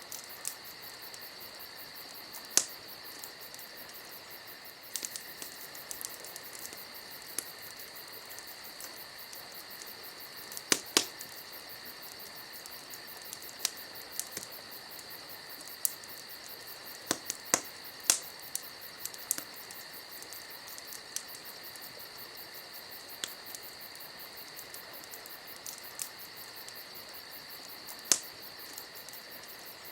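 Campfire wood crackling, with irregular sharp pops scattered through, a few of them loud, over a steady high-pitched insect chorus.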